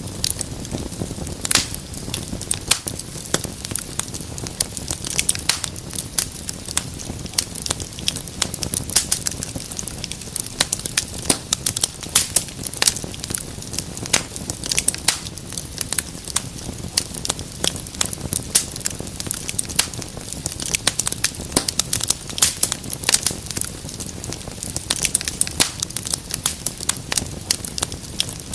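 Wood fire burning in a fireplace, crackling and popping in quick, irregular snaps over a low steady rumble of the flames.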